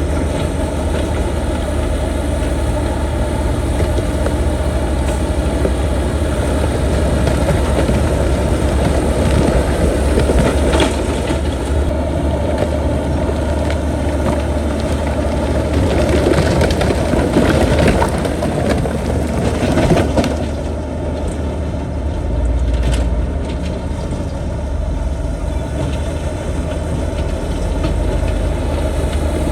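Heavy diesel earthmoving machinery running steadily, with louder, rougher noise and scattered knocks through the middle that ease off about two-thirds of the way through.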